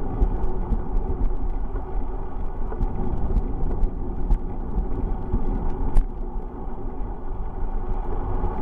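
Steady low rumble of wind and road noise from a camera riding on a moving bicycle, with scattered small clicks and knocks throughout.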